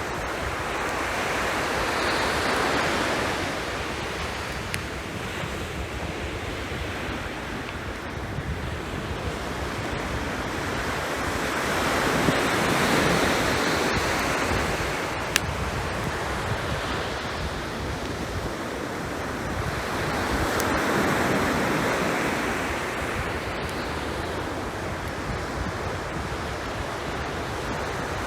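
Sea surf washing onto the shore, swelling and falling back three times, about every eight to ten seconds. A few sharp pops come from a driftwood campfire.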